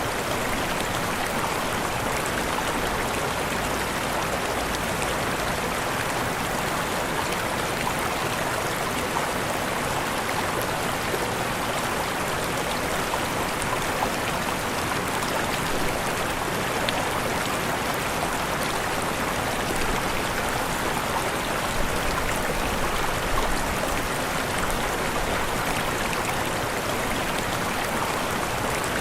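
Waterfall: falling water rushing steadily with a dense, even splash and no change in strength.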